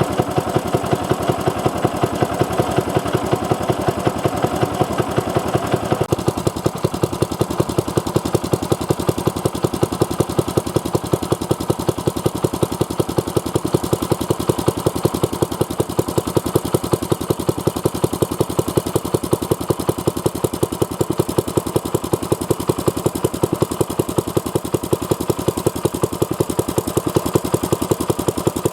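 Old Kubota LK50 air-cooled general-purpose engine running steadily, its exhaust beating in an even, rapid rhythm; the tone changes slightly about six seconds in.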